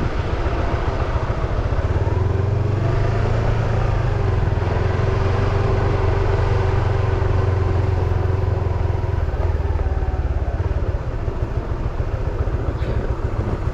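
Car engines and road noise in traffic: a steady low engine rumble that swells about two seconds in and eases off after about ten seconds.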